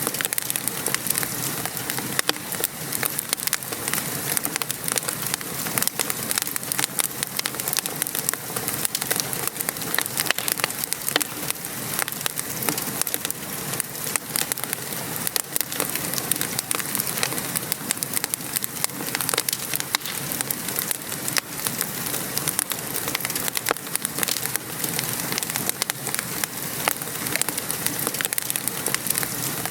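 Wood fire crackling and popping in a fireplace with a steady patter of rain outside, a dense stream of small sharp pops over an even rain hiss.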